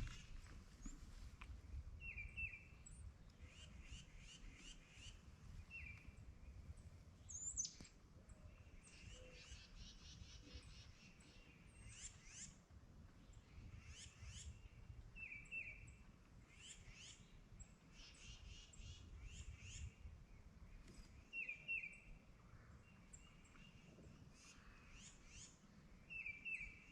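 Faint wild songbirds chirping and trilling every few seconds, over a low background rumble.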